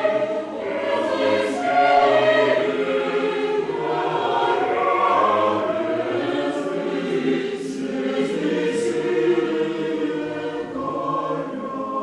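A choir singing in several voice parts, with the sung s-sounds of the words heard as brief hisses a few times.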